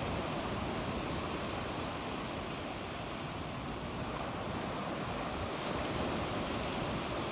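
Sea waves breaking and washing on the shore, a steady wash of surf that swells gently, with some wind on the microphone.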